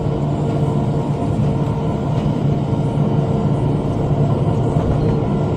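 Tractor engine running at a steady working speed while pulling a rotary cutter (bush hog) through brush, a continuous even drone.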